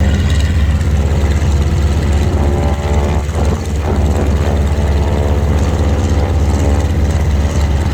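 Propeller aircraft engine running steadily, with a strong low rumble and a steady engine tone.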